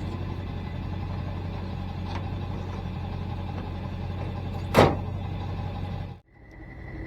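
Truck engine running steadily, with one sharp, loud knock about five seconds in. Near the end the sound cuts off abruptly and a different, quieter background with a steady high tone follows.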